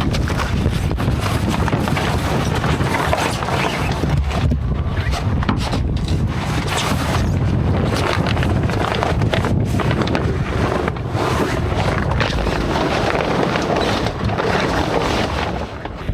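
Wind buffeting the microphone: a continuous rushing noise with a gusty low rumble that rises and falls irregularly.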